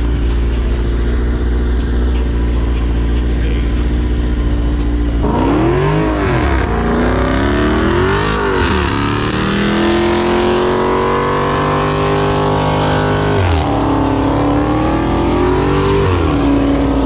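Car engine idling, then revved hard: two quick rises and falls about five seconds in, a few seconds held at high revs, a sudden drop, one more rev, and a settle back to a steady idle near the end.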